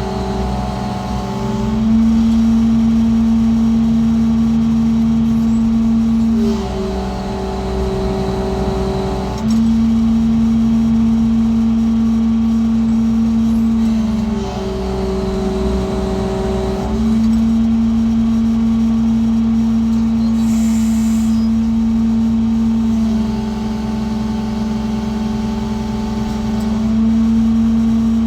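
Diesel engine and hydraulics of a 200-ton lattice boom crawler crane, running steadily. Several times the engine speed and load step up and drop back as the operator works the controls to move the concrete bucket.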